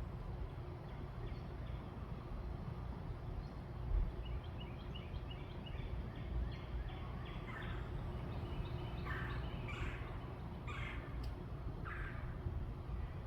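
Birds calling over a steady low rumble. Rows of quick, high chirps come first; from about halfway through, five or so louder, harsh calls follow, each short and falling in pitch.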